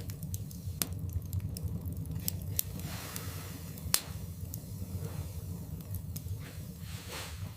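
Wood fire burning in a fireplace: scattered sharp crackles and pops, the loudest about four seconds in, over a steady low rumble of flames, with a few soft hissing swells.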